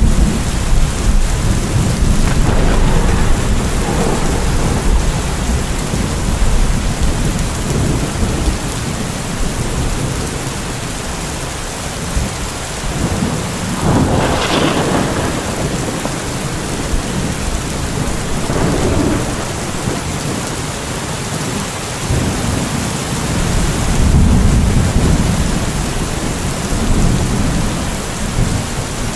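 Steady heavy rain hissing, with thunder rumbling low near the start and again in the last third. About halfway through there is a brighter, sharper burst of thunder.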